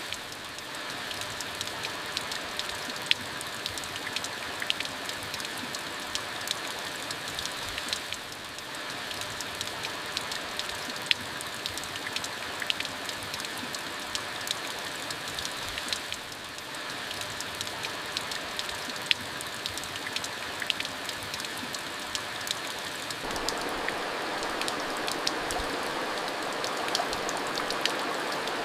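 Steady rain falling, a constant hiss with many sharp ticks of individual drops hitting a surface; about three-quarters of the way through it grows a little louder.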